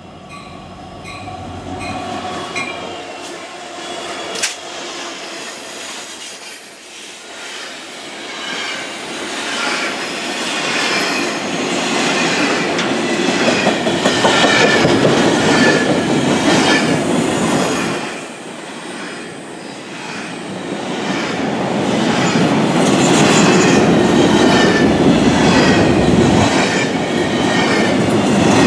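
Freight train passing close by: two EMD SD70M diesel locomotives run past, followed by a long string of empty intermodal well cars. Steel wheels clatter rhythmically over rail joints, with some high wheel squeal. The sound grows louder as the cars go by and dips briefly about two-thirds of the way through.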